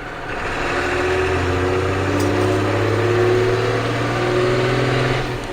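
Ford CF7000's 6.6 L Brazil diesel pulling through a gear, its pitch climbing slowly and steadily as the revs rise. Near the end the engine note drops away, as the throttle is let off, while the engine is still cold.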